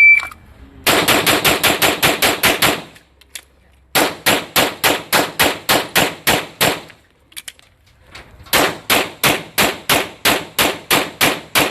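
A shot timer's start beep, then a pistol fired in three rapid strings of about ten shots each, roughly four to five shots a second: two-handed, then strong hand only, then support hand only. Short pauses with faint clicks between strings are the magazine reloads.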